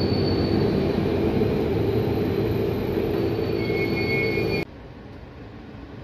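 HŽPP passenger coaches rolling past close by: a steady rumble of wheels on rail with a thin high-pitched tone over it. It cuts off suddenly near the end, leaving a much quieter background hum.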